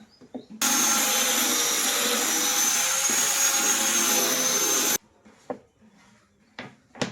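A high-speed electric power tool running steadily for about four seconds, with a constant high whine over a loud rushing noise, starting and stopping abruptly. A sharp click follows near the end.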